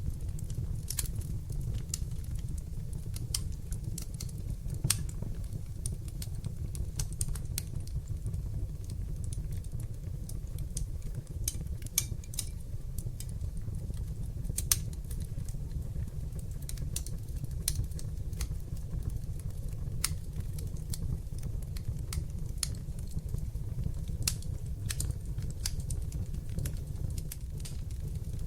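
Wood fire in an open hearth burning steadily with a low rumble, and irregular sharp crackles and pops throughout.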